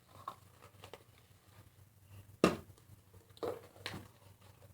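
Quiet handling of Play-Doh and its tubs: scattered light taps and rustles, with one sharp click about two and a half seconds in and a couple of softer knocks after it.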